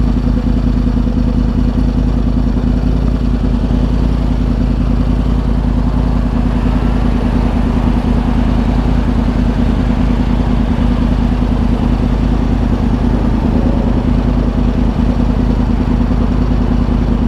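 2010 Yamaha R1's crossplane inline-four running through dual Yoshimura exhausts, holding steady revs with an even, unchanging pitch.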